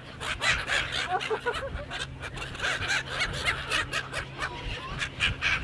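A flock of seagulls calling and squabbling over thrown food while people laugh, with many short sharp bursts and a few brief calls.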